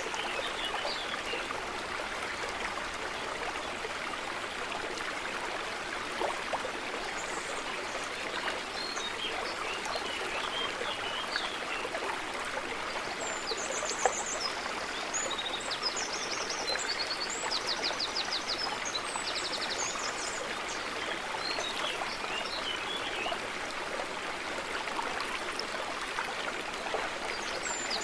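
Steady rushing of a running stream, with songbirds chirping over it; several rapid trilled phrases come through in the middle and again near the end.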